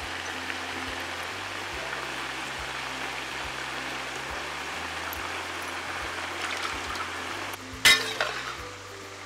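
Cauliflower and vegetables sizzling steadily in a hot aluminium kadai, with background music. About eight seconds in, a metal ladle clatters and scrapes against the pan as the vegetables are stirred.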